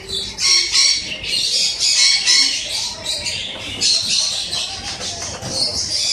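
Birds squawking and chattering: high, shrill calls coming in quick bursts without a break.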